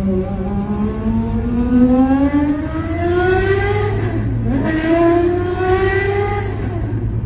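A high-performance car engine accelerating hard through the gears: its pitch climbs for about four seconds, drops sharply at an upshift, then climbs again before easing off near the end.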